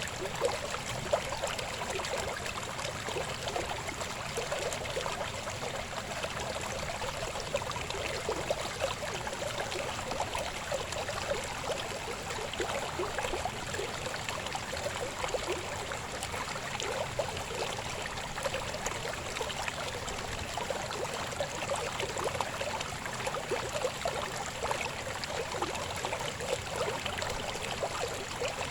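Shallow river babbling and splashing over stones, a steady rush of water with many small gurgles and splashes.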